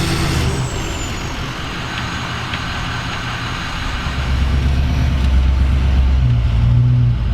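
A large vehicle's engine running with a low, steady drone that gets louder about four seconds in, with a couple of faint clicks early on.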